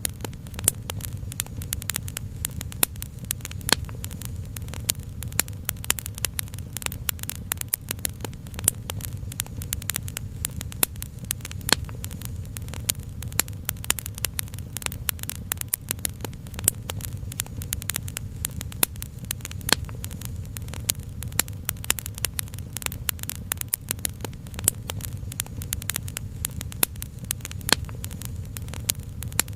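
Wood fire crackling: dense, irregular snaps and pops over a steady low rumble.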